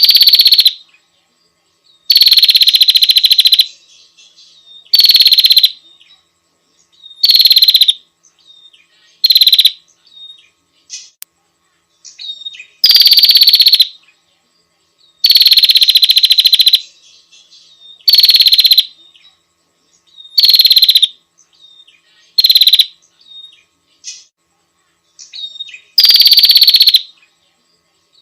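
Female bar-winged prinia (prenjak) giving its calling-the-male trill: loud, buzzy rattling phrases repeated about every two seconds, each dropping slightly in pitch as it starts, with soft short chips between. It is the call a female uses to summon a male.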